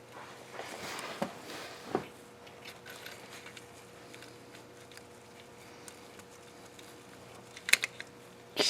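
Metal engine parts and tools being handled: rustling with scattered sharp clicks and small knocks, then a louder short clatter near the end.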